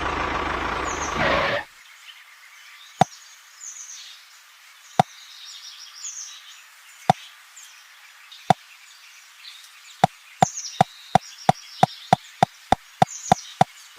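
Sharp hard knocks: four single ones about two seconds apart, then a quick, even run of about three a second near the end. Faint high chirps of birds in the background.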